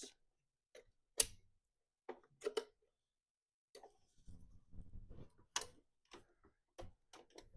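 Scattered light clicks and taps, with a faint low rustle in the middle, as a vintage Hoover Convertible Elite upright vacuum is handled and looked over.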